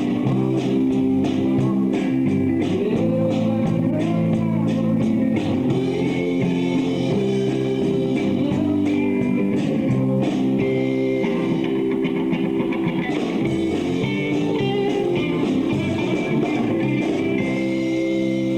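Live rock band playing: electric guitars, bass and drums, with a steady drum beat under sustained guitar chords and lead lines.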